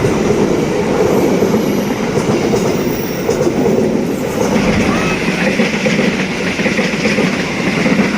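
A train running past with the steady clatter of wheels on the rails; a higher-pitched whine joins in about halfway through.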